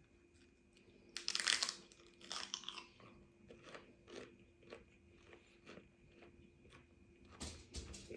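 A crisp bite into a raw celery stick about a second in, then crunchy chewing, one chew about every half second, growing fainter, with a louder crunch near the end.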